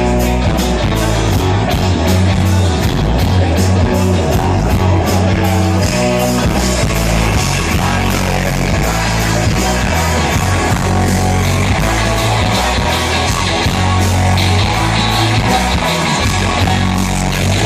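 Live rock band playing loud, with distorted electric guitar, bass, drums and singing, as heard from the crowd.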